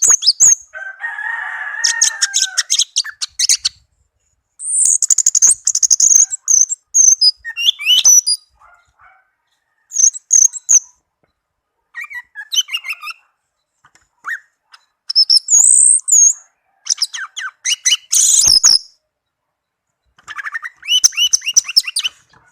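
Orange-headed thrush singing: bursts of rapid, varied, high song phrases separated by short pauses. A single knock sounds late on.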